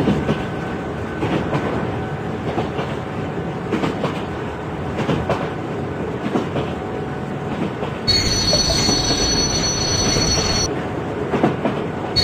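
Train running on the rails: a steady rumble with a running rattle of wheel clicks. About eight seconds in, a high steady wheel squeal joins for a couple of seconds, then cuts off.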